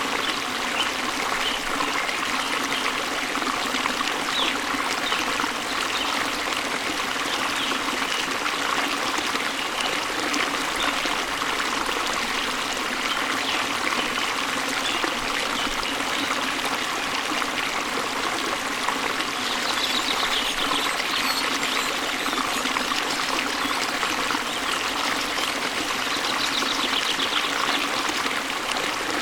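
Waterfall and stream water running steadily, an even rushing and trickling with no break.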